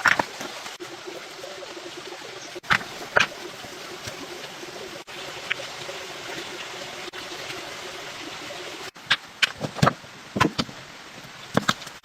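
Steady rushing noise, like running water, with scattered sharp knocks and taps: two about three seconds in, then a quick cluster near the end.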